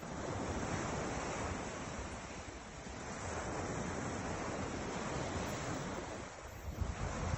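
Ocean waves washing on the shore, swelling and ebbing, with wind buffeting the microphone near the end.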